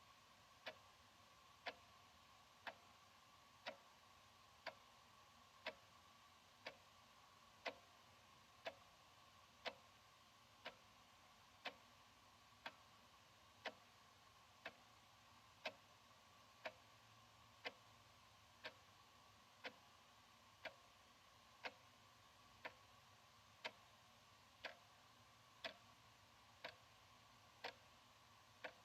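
Analog wall clock ticking steadily, one crisp tick each second.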